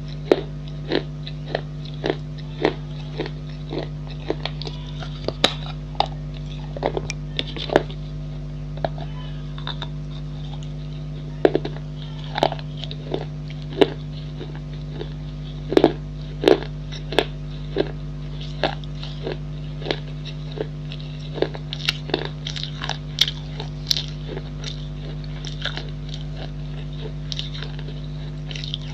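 Pieces of a baked clay pot bowl being bitten and chewed: crisp, irregular crunches about once or twice a second, over a steady low hum.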